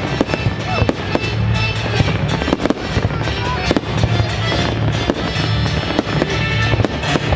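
Fireworks display: rapid bangs and crackling shell bursts, several a second, over loud accompanying music.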